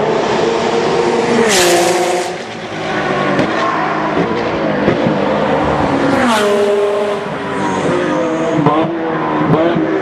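GT3 race cars' engines at high revs on track. Twice a car comes by with a sharp rush of noise and its engine pitch drops, and near the end the revs rise again in short steps.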